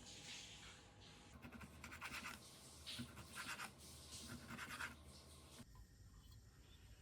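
Faint scratching, several strokes in a row, cutting off abruptly about five and a half seconds in.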